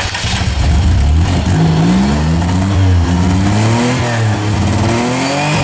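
Minivan engine, its catalytic converter removed and a Flowmaster performance muffler fitted, running just after starting and revved up and down several times through the new exhaust.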